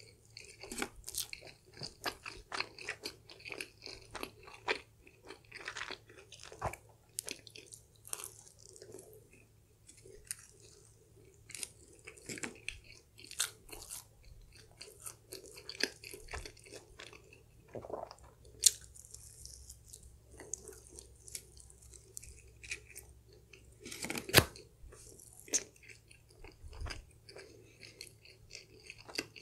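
A person chewing and crunching stuffed-crust pizza crust close to the microphone: irregular crisp crunches and chewing, with a few sharply louder bites.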